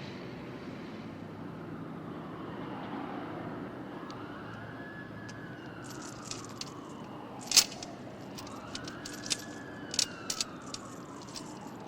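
A siren wailing slowly up and down twice over a steady traffic hum. A few sharp clicks and knocks come in the second half, the loudest about two-thirds of the way through.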